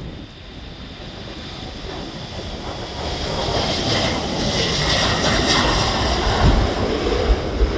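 Jet airliner engines at takeoff thrust, a broad rushing roar with a high hiss and low rumble that grows louder over the first half, then holds loud.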